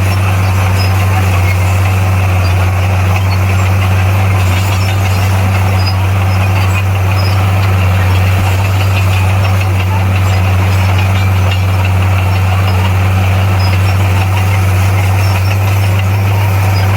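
Diesel engine of heavy earth-moving machinery running at a steady speed: a deep, even drone that holds the same pitch and loudness throughout.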